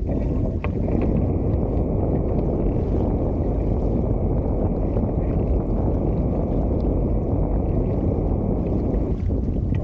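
Steady rushing of wind on the microphone and water along the hulls of a Hobie Tiger F18 catamaran under sail.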